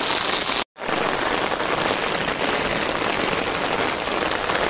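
Steady rain falling, an even hiss with no let-up, which cuts out for a split second less than a second in.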